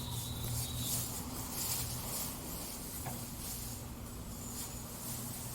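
Outdoor yard ambience: a steady low hum under a high hiss that pulses faintly, a little louder in the first couple of seconds.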